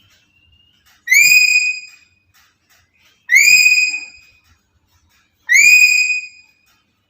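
Black-capped lory's loud whistled call, sliding up then holding briefly before fading, repeated three times at even intervals about two seconds apart.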